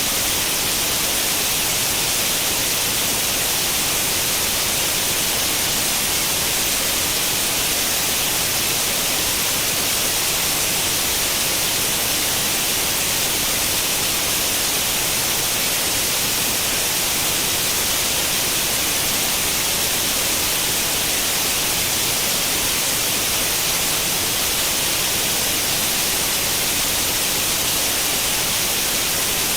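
Steady white noise like the static of an old tube television tuned to no channel: an even, unchanging hiss, strongest in the high range.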